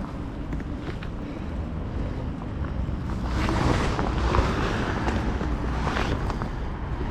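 Wind buffeting the microphone: a steady low rumble that gusts louder for about a second around the middle.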